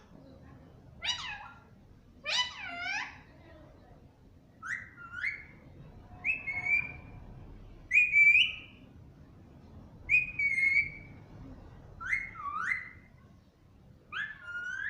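Pet pahadi parrot giving a series of about eight short, whistle-like calls, one every second or two, some sliding upward and some dipping then rising.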